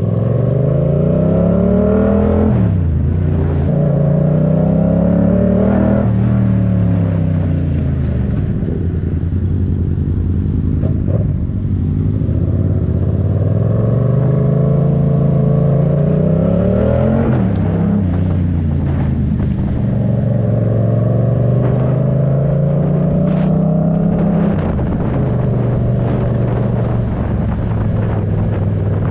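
Yamaha MT-07's parallel-twin engine accelerating through the gears. The revs climb and fall back sharply several times as it shifts up.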